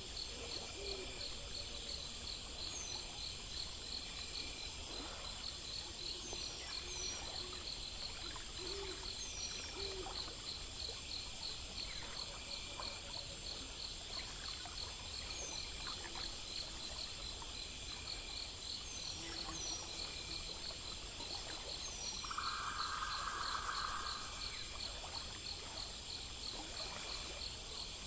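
Night ambience: an owl hooting low a number of times over a steady chorus of crickets and other insects chirping fast. A louder buzzing call lasting about a second and a half comes near the end.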